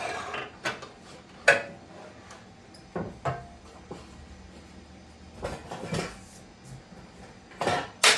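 Scattered knocks and clatter of wood and tools being handled and set down on a shop bench: about half a dozen separate sharp hits, the loudest near the start and near the end.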